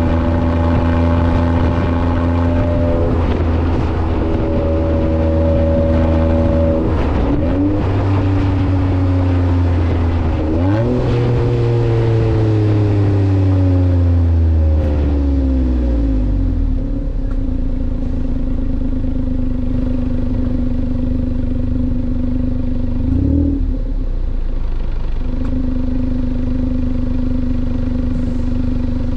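Kei truck's small three-cylinder engine running through a new aftermarket muffler: held at a raised idle, blipped briefly, then revved once about eleven seconds in and left to fall slowly back to a low, steady idle, with one more short blip near the end.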